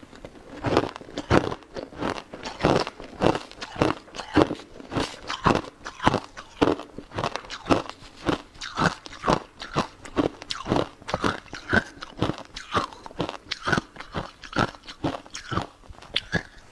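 Ice being crunched between the teeth close to the microphone, a steady run of sharp crunches at about two a second.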